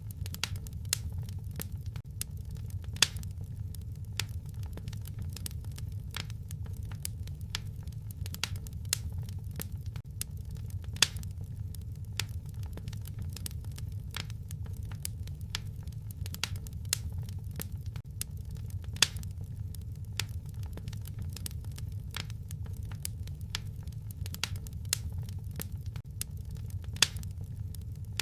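Wood fire crackling in a fireplace: scattered sharp pops and snaps over a steady low rumble, with a few louder pops about every eight seconds.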